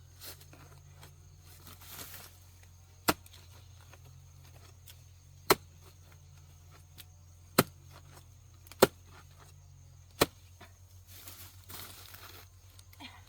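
Five sharp chopping strikes, spaced one to two and a half seconds apart, over a steady low hum, with soft rustling near the end.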